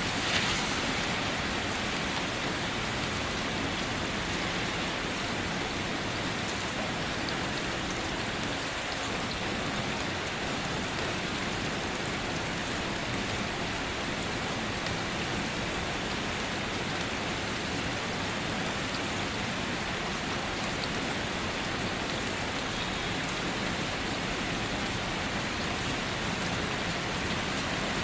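Steady rainfall: an even hiss of rain with faint, scattered ticks of individual drops.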